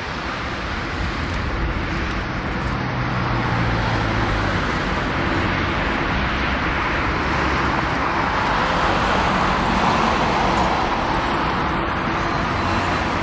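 Boeing 787-10 airliner's twin jet engines at takeoff power during the takeoff roll: a broad roar that builds over the first few seconds and stays strong, loudest about ten seconds in.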